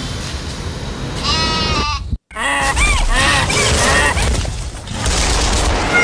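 Bleating animal calls over steady street traffic noise. The sound drops out completely for a moment about two seconds in, then a quick run of rising-and-falling bleats follows.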